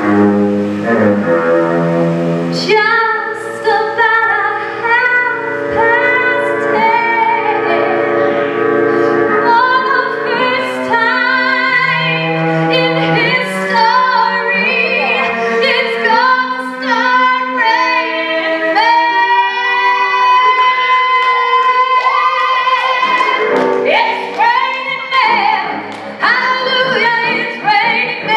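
A woman singing a show tune live, with cello accompaniment holding low sustained notes under the voice.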